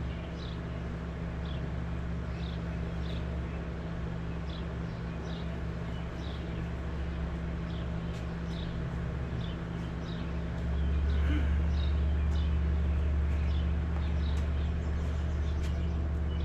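Steady low mechanical hum that steps up louder about two-thirds of the way through, with a bird chirping repeatedly over it.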